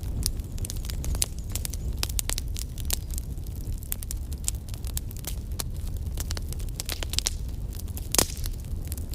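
Wood fire crackling steadily with frequent sharp pops over a low steady rumble; one louder pop about eight seconds in.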